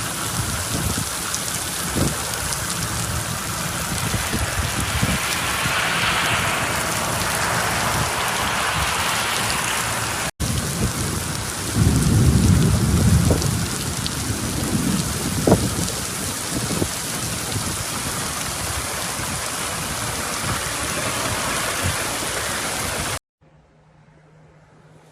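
Heavy rain pouring down steadily, with a low rumble of thunder about twelve seconds in. Near the end the rain sound cuts off suddenly, leaving only a faint low hum.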